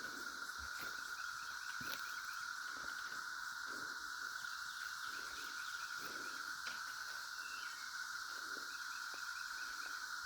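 Chorus of cicadas: a steady, unbroken high-pitched drone of many insects singing together, with faint scattered rustles and clicks underneath.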